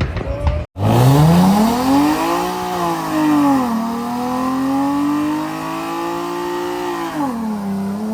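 Car engine revved up hard about a second in and held at high revs during a burnout, the pitch dipping briefly twice and climbing again, over the hiss of spinning tires.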